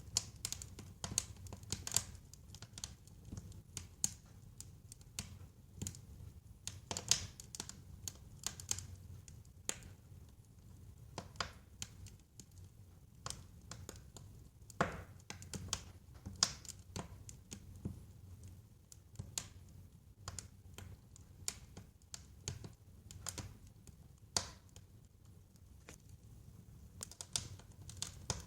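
Wood fire crackling: irregular sharp crackles and pops, a few of them louder, over a low steady rumble of the burning.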